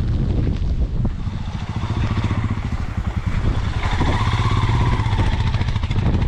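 Motorcycle engine running steadily under load in a low gear, with a higher tone coming in about four seconds in.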